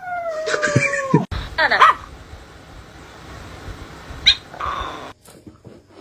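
A pet animal's long, drawn-out cry on a slowly falling pitch, cut off abruptly about a second in. A shorter cry follows, then low background noise.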